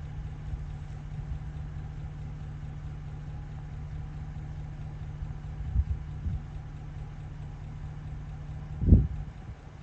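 A truck engine idling steadily, which is the other truck running to jump-start a pickup whose battery is dead. There are two short low thumps about two-thirds of the way in and a louder thump near the end.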